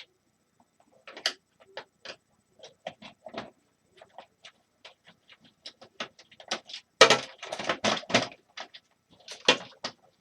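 Small clicks and knocks of hand tools and plastic and metal parts being handled while a space heater is taken apart, with a louder run of clattering and rattling about seven seconds in.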